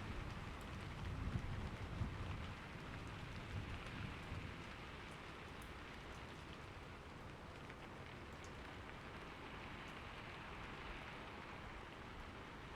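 Steady rain falling, with a few sharp drop ticks, and a low rumble of distant thunder that dies away in the first few seconds.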